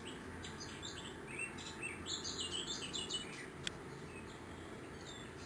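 A small bird chirping a quick run of high notes for about three seconds over steady low background noise, followed by a single sharp click.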